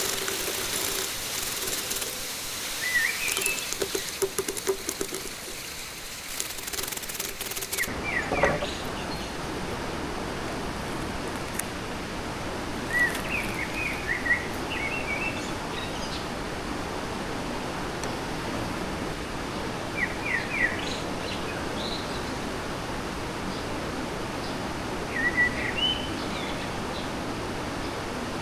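Steady rushing of a fast-flowing stream, with a small bird calling in short chirping phrases every few seconds. For the first eight seconds a brighter hiss with crackles sits over it, and then stops abruptly.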